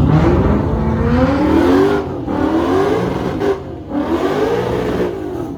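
V8 car engine accelerating hard, its pitch climbing and dropping twice at upshifts before easing off near the end.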